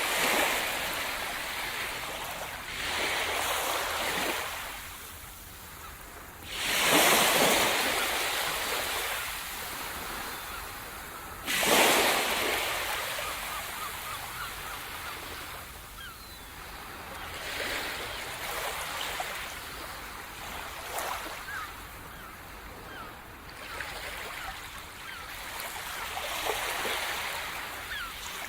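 Sea surf: waves breaking on the shore one after another, each a rising crash that washes out, the two biggest about 7 and 12 seconds in, then smaller swells with a light fizzing of foam.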